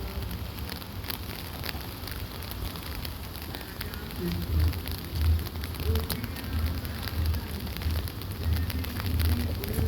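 Steady light rain falling, with scattered drops ticking, over a low rumble that pulses about every two-thirds of a second.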